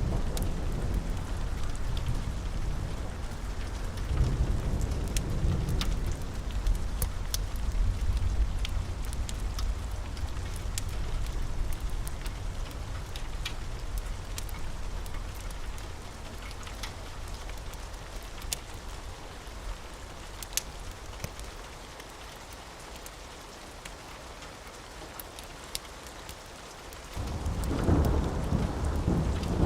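Steady rain with rolling thunder. The rumble fades over the middle, then a new roll of thunder breaks in suddenly near the end. Scattered sharp ticks sound over the rain throughout.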